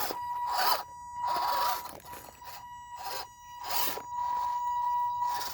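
Toy-grade MN82 1/12 RC rock crawler driving slowly over rock. A steady high whine comes from its electric drivetrain at light throttle, broken by repeated crunching scrapes of its hard rubber tyres on rock.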